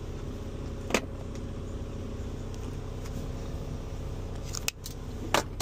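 Semi-truck diesel engine idling steadily, with two short sharp clicks, one about a second in and one near the end.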